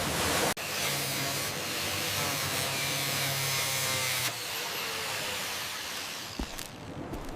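A small motor-driven machine running with a steady hum under a loud hiss; the hum stops about four seconds in while the hiss carries on.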